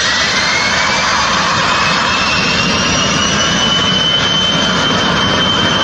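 Jet aircraft engine running loud and steady, its high whine rising in pitch over the first few seconds and then holding level, as when the engine spools up.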